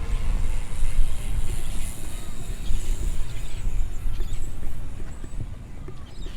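Wind buffeting the microphone: an uneven low rumble with a faint hiss above it, easing off slightly near the end.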